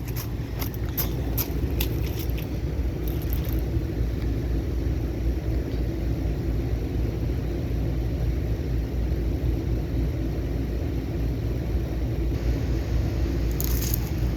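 Outdoor central air-conditioner condensing units running: a steady low hum of compressors and condenser fans, with a few light clicks in the first few seconds and again near the end.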